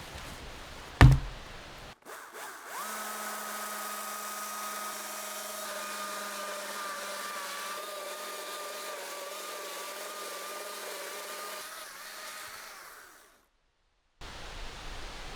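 Electric power tool running steadily for about ten seconds, a whine that wavers slightly as it works, then stops. A single loud knock comes about a second in, before it starts.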